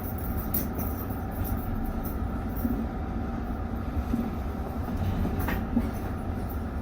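Steady low rumble of a Tsukuba Express train, with one brief click about five and a half seconds in.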